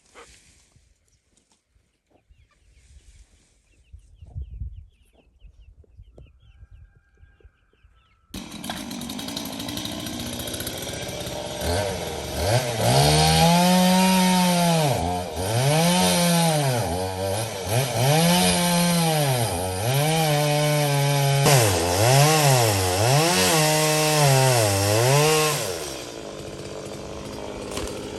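Chainsaw starting up about a third of the way in. It then revs up and down over and over, its pitch dipping and recovering about every second and a half while cutting firewood, and settles to a lower, steadier run near the end.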